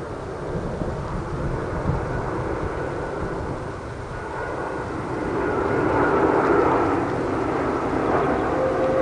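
Jet engine noise of an arriving Airbus A330 airliner, a steady rumble that swells louder about five seconds in, with faint engine whine tones in the second half.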